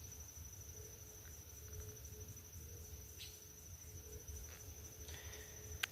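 Insects trilling steadily in a high, fast-pulsing chirr, with a faint low rumble underneath; a single sharp click near the end.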